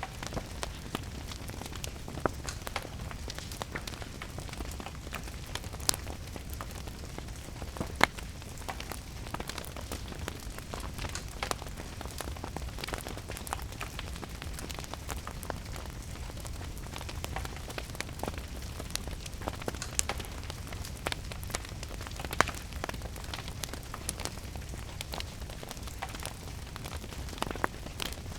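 Wood fire crackling with scattered sharp pops, the loudest about 6 and 8 seconds in, over a steady hiss of rain.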